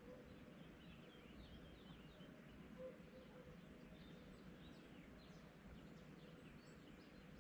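Faint birds chirping, many short scattered calls, over a low steady background hum.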